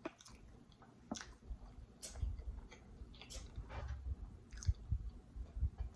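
Close-up wet chewing of creamy mac and cheese, with scattered soft lip smacks and squishy mouth clicks.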